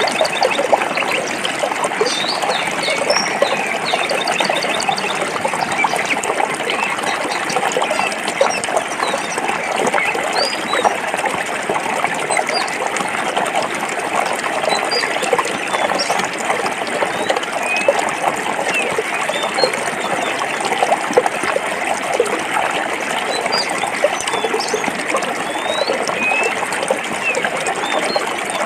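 Stream water running and splashing over rocks in a steady rush, with small birds chirping faintly now and then.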